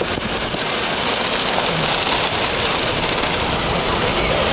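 Heavy rain falling steadily on a vehicle, a dense, even hiss with no pauses.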